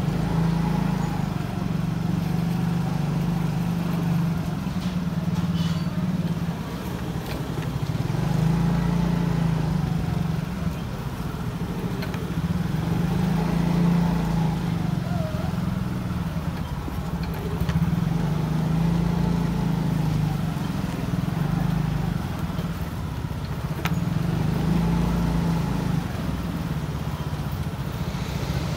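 Motorcycle engine running under way at a steady low hum that swells and eases every few seconds, over steady road noise.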